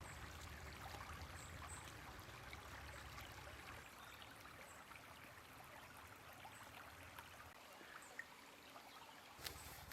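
Near silence: faint, steady flow of river water.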